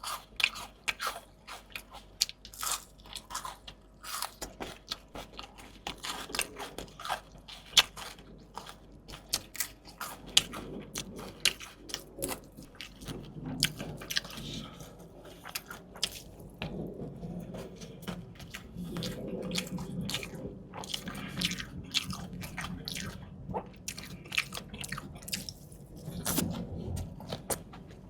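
Close-miked eating: crisp, crunchy bites and chewing of crunchy food, with dense sharp crunches for the first ten seconds or so, then softer, lower chewing with scattered crunches.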